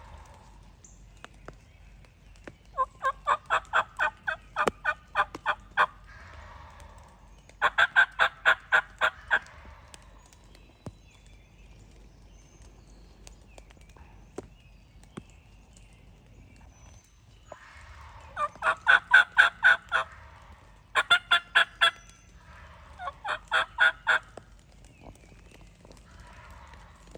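Turkey yelping: five runs of rapid, evenly spaced, loud yelps, each run a few seconds long, with quiet gaps between them.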